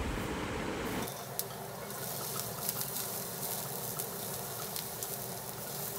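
Sliced onion, garlic and green chillies sizzling in a spoonful of oil in a frying pan while being stirred with a spatula, a steady hiss with scattered small crackles that sets in about a second in.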